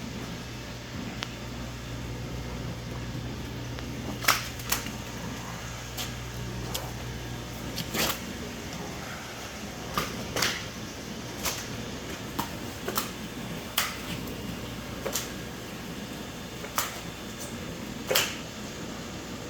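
About a dozen sharp, irregular slaps and knocks, each ringing briefly, over a steady low machine hum that fades about halfway through.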